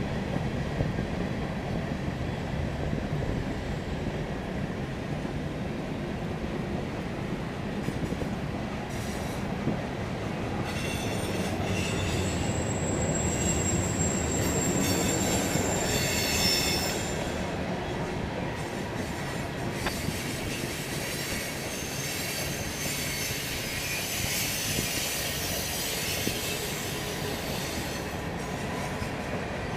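Freight train cars rolling past on steel rails with a steady rumble. A high-pitched wheel squeal rises from about twelve seconds in and fades about five seconds later.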